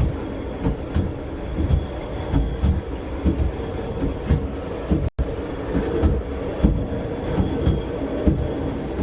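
A 1956 Pontiac hy-rail car rolling along railroad track, heard from aboard: a steady running rumble and hum with irregular low knocks from the wheels over the rails.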